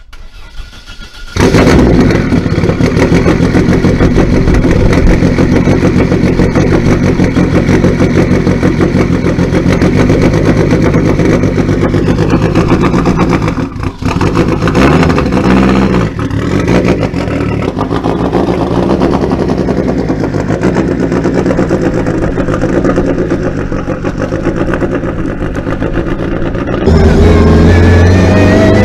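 Lancia rally car engine catching about a second and a half in, then running steadily. Near the end it gets louder and rises in pitch as the car accelerates away.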